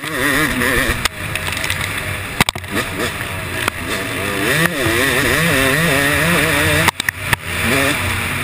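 Yamaha YZ250 single-cylinder two-stroke motocross engine on track, its revs rising and falling over and over with the throttle. It cuts out sharply twice, briefly each time, about two and a half and seven seconds in.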